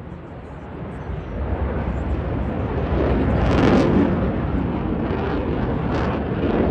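Jet noise from a Eurofighter Typhoon's twin EJ200 turbofan engines. The roar builds from about a second in, is loudest around four seconds in, and then stays loud.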